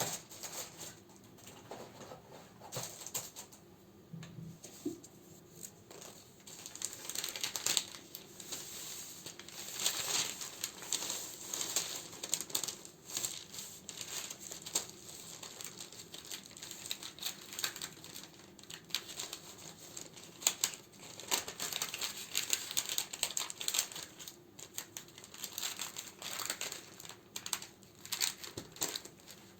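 Plastic and paper crinkling and rustling as candles are handled and sorted by hand: an irregular run of crackles, quieter for a couple of seconds about four seconds in.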